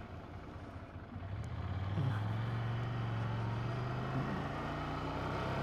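Ducati 797 motorcycle's L-twin engine running under way. It is quiet at first, then builds about two seconds in and holds a steady low tone, with slight changes in pitch.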